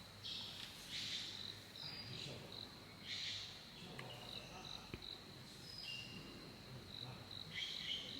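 Birds singing in short, repeated chirping phrases over a steady high insect trill, with a faint murmur of voices underneath.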